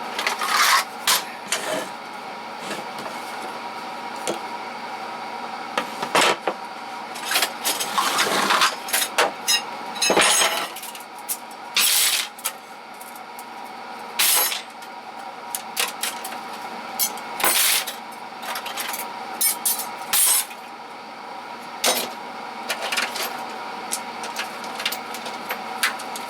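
Hand tools and small hardware clinking and clattering as they are lifted out of toolbox drawers and set down, in irregular knocks and rattles.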